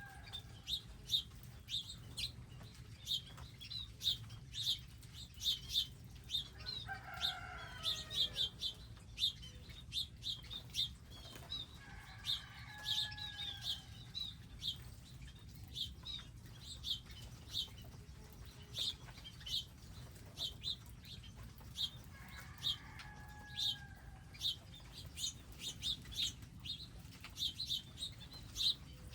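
Many small wild birds chirping in quick short notes, with a longer, lower drawn-out bird call heard three times.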